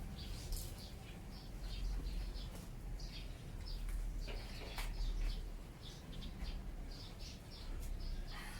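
Small birds chirping: many short, high chirps scattered irregularly throughout, over a steady low rumble.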